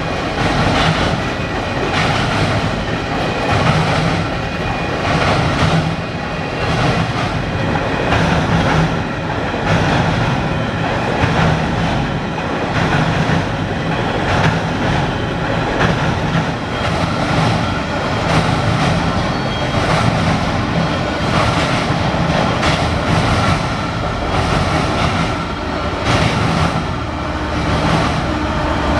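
Canadian Pacific freight train rolling past, the cars' wheels clicking over rail joints in a steady rumble.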